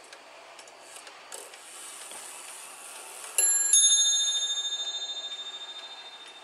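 Kieninger 1276 mechanical mantel clock ticking as its striking train whirs into action. It then strikes its double bell twice, a higher note then a lower one, and the ringing dies away with a pulsing beat. This is its half-hour strike.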